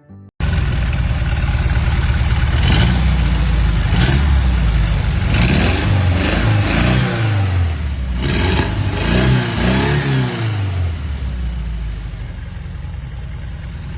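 A car engine cuts in abruptly and is revved in a series of quick rises and falls, then drops back to a steady idle for the last few seconds.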